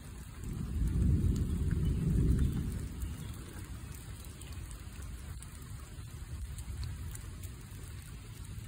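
Steady rain falling, with a low rumble that swells and fades over the first three seconds.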